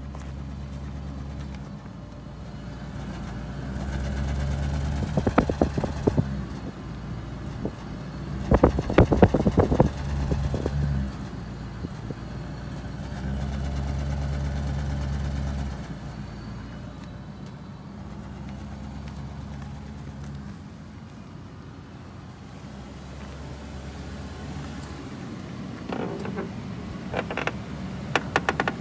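Car engine idling at the tailpipe, a steady low drone that swells and drops in level several times. Short crackling noises come over it at a few points.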